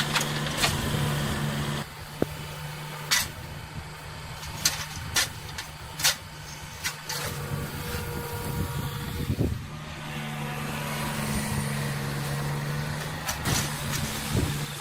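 Heavy diesel road-construction machinery running with a steady engine hum. Sharp metallic clanks are scattered through it, and the engine sound drops in level about two seconds in and comes back about ten seconds in.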